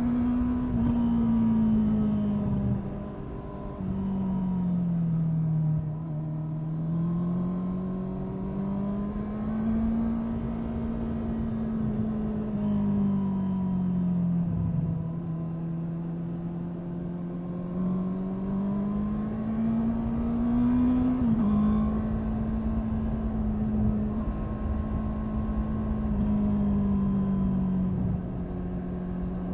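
Honda 650 inline-four motorcycle engine running under changing throttle, its revs rising and falling in long smooth swells. The pitch drops abruptly about two-thirds of the way through.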